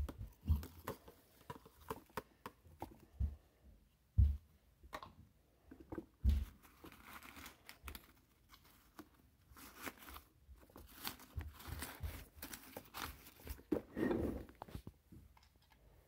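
Plastic toy garbage truck being worked by hand, with its loose paper trash crinkling. Scattered small plastic clicks and knocks, with louder thumps about four and six seconds in.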